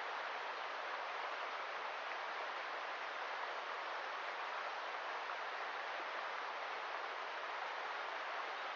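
River water rushing over stones: a steady, unbroken hiss of flowing water.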